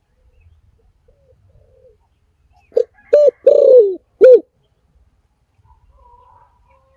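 Spotted dove cooing: about three seconds in, one phrase of four notes, two short notes, a longer coo that falls in pitch, then a final short note.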